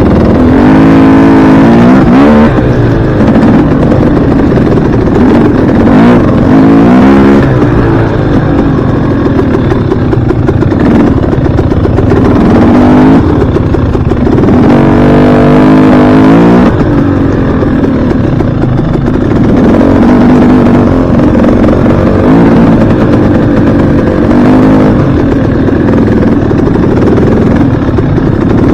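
Dirt bike engine under way, revving up and easing off again and again, its pitch climbing and dropping several times.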